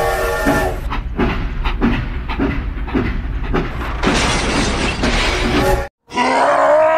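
Train running with a clickety-clack rhythm of about two knocks a second, a louder rushing noise joining about four seconds in. The sound cuts out briefly near six seconds, then a voice groans.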